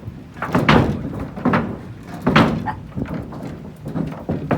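A torn-loose roof section hanging outside, slamming and rattling against the house in strong wind: repeated loud bangs, roughly one a second.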